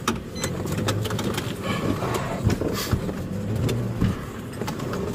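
Police cruiser's engine and road noise heard from inside the cabin while it rolls slowly behind a car, a steady low hum with many short sharp clicks scattered through it.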